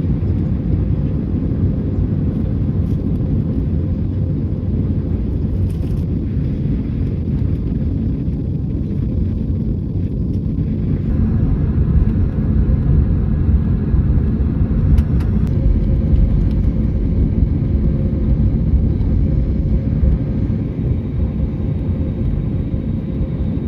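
Inside the cabin of an Airbus A321neo during the takeoff roll: the engines at high thrust and the airframe give a loud, steady, deep rumble.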